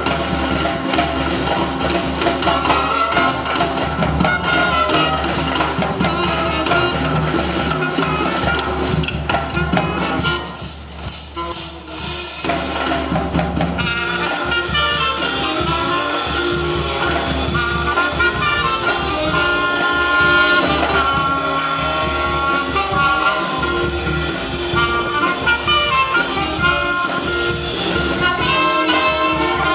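Live jazz band playing a sixties tune medley: trumpet, trombone and saxophones over piano, bass and drums. About ten seconds in the band drops out for roughly three seconds, leaving mostly a cymbal-heavy break, then the horns come back in.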